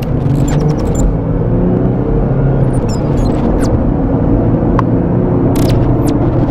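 Vehicle engine and road rumble, steady, with the engine's drone holding a constant pitch, as heard while driving; a few faint short chirps and clicks sound over it.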